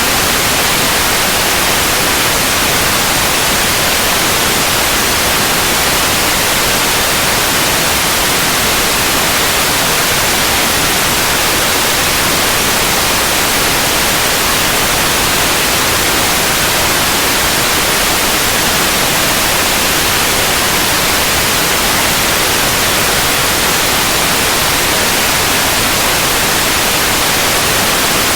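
Steady, unbroken white noise: an even hiss across the whole range, with no changes or events.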